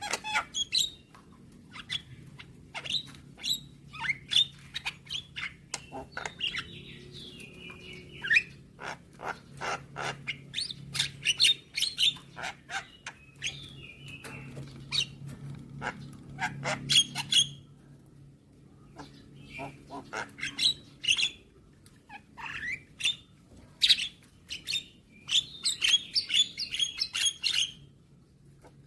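Javan myna (jalak kebo) calling: a busy run of sharp clicks and harsh chirps mixed with short whistled notes, with a brief pause about two-thirds of the way through. A faint steady low hum sits underneath.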